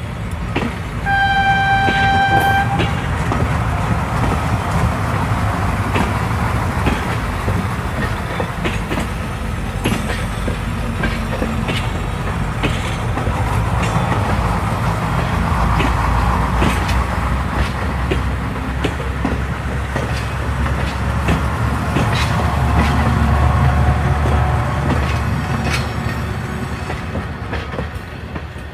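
One held horn blast, a steady tone about a second in lasting nearly two seconds, then the continuous rumble and clicking clatter of a train running on rails, fading near the end.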